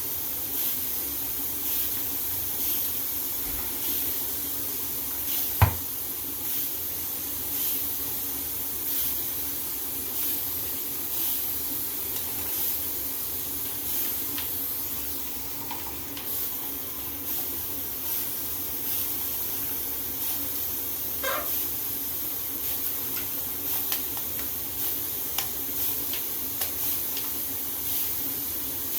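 Shower water spraying steadily, a constant hiss. A single sharp knock comes about six seconds in, and a brief high chirp comes a little past twenty seconds.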